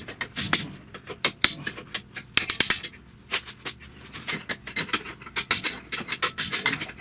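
Hand tools clinking and rattling against the car's steel frame as a mechanic works blind in a tight space: many quick, irregular metallic clicks and knocks.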